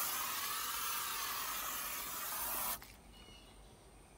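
Aerosol can of Old Spice body spray sprayed in one long continuous hiss, cut off abruptly when the nozzle is released, used to cover the dog smell in the truck cab.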